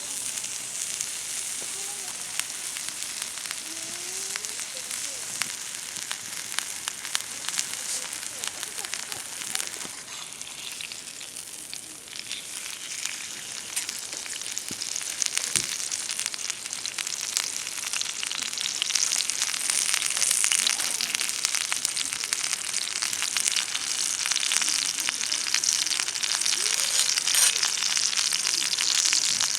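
Food sizzling and frying in a pan over a campfire: a steady hiss scattered with fine crackles, getting louder about two-thirds of the way through.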